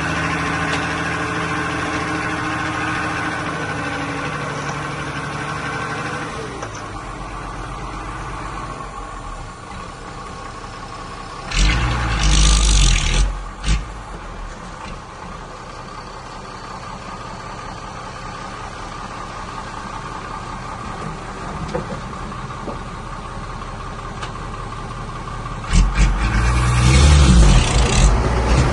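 Diesel engines of heavy earthmoving machinery running at a steady idle, easing off about six seconds in, with two loud rough surges, about twelve seconds in and again near the end.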